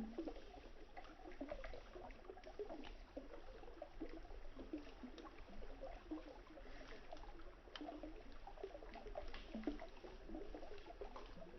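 Wood campfire crackling, with a few sharp pops scattered through, over a river's water burbling and trickling.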